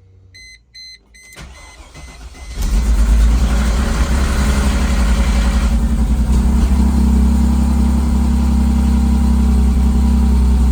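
A few short beeps, then the starter cranks briefly and the Mercedes C32 AMG's supercharged 3.2-litre V6 catches and keeps running steadily. This is its first start after the head gaskets were replaced.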